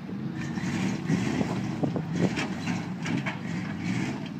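Engine of a heavy Chevrolet truck running steadily, with some crackle and rustle over it.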